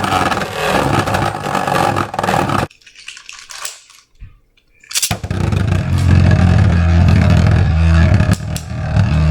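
Beyblade spinning tops, the 3D-printed Mystic Ultraus and a Storm Pegasus, spinning, scraping and clattering against each other in a plastic stadium. The sound breaks off for about two seconds near the middle, then comes back with a steady low hum.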